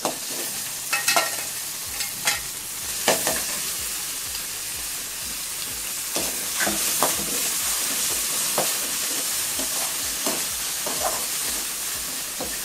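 Freshly added mint paste sizzling steadily in hot oil in a metal kadai, stirred with a metal spatula that scrapes and knocks against the pan now and then. It is being fried until its raw smell goes.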